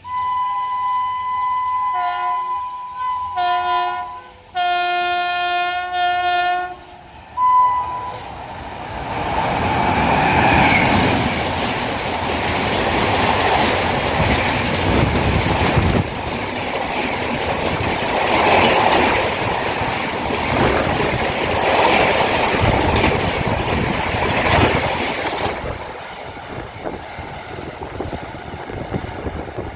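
Indian Railways express train sounding its horn in several blasts, long and short, over the first seven seconds or so, then rushing past at high speed with a rhythmic clatter of wheels over rail joints that fades away near the end.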